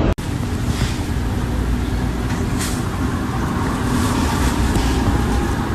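Steady low rumbling noise without speech, of the kind heard inside or near a moving vehicle, beginning abruptly just after the start.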